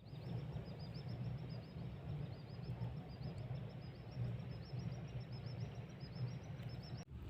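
Night outdoor ambience: a small animal giving a rapid, steady series of short high chirps, over a low steady rumble.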